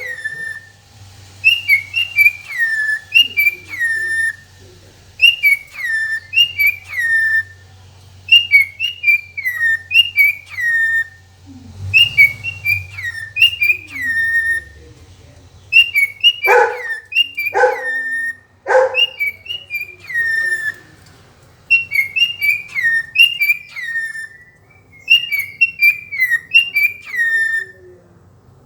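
Cockatiel whistling its song, a short phrase of warbling, falling notes repeated over and over with brief pauses between. Three short loud calls break in around the middle.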